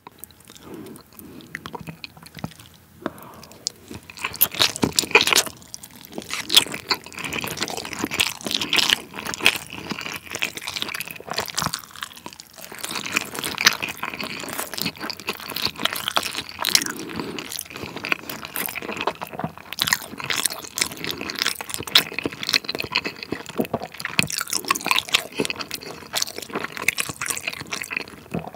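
Close-miked chewing of a mouthful of giant raw-salmon nigiri, a busy run of sharp smacking clicks that picks up a few seconds in.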